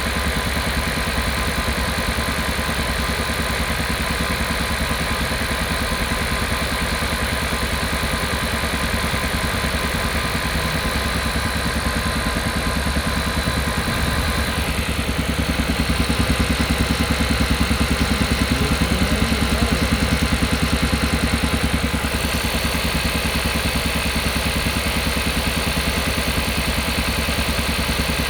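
Kia Carnival Hybrid's engine running with a steady, rapid, low thudding pulse, the 'puck-puck-puck' noise that the owner finds abnormal. The pulse grows louder for several seconds about halfway through, then settles back.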